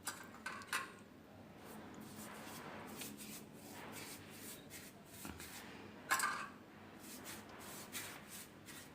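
Paintbrush strokes brushing liquid paint stripper onto a painted wall: faint, irregular swishing, with one louder stroke about six seconds in.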